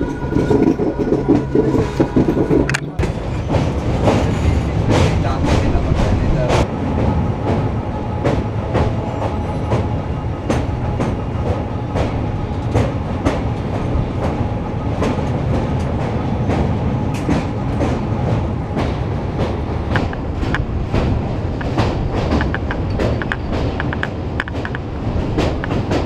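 Passenger train running at speed, heard from an open carriage door: a steady rumble of wheels on rails with irregular clicks and clacks, more frequent near the end as the train crosses a steel truss bridge.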